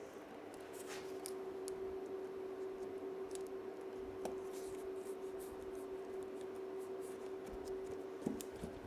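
Light clicks and rustles of model railway track and baseboard being handled, with a steady hum that starts about half a second in and stops shortly before the end.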